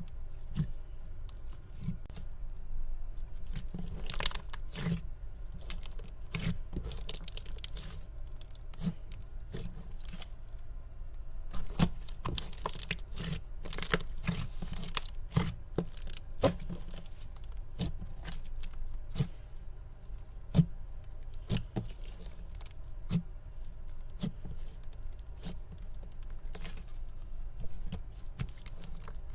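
Hands pressing and squishing slime, giving irregular crackling clicks and crunches over a steady low hum.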